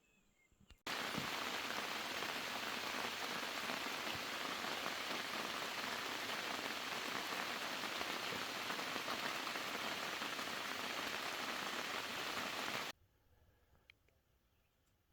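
Steady, heavy rain with a dense even hiss. It starts suddenly about a second in and cuts off suddenly about two seconds before the end.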